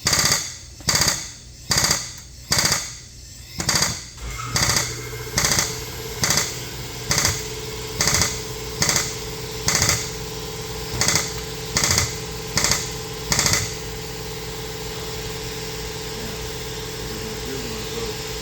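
Repeated hammer blows on the car's sheet metal while the front end is held under tension by a pulling chain: about sixteen sharp strikes, roughly one every second, stopping near the end. About a quarter of the way in, a steady motor hum starts and keeps going.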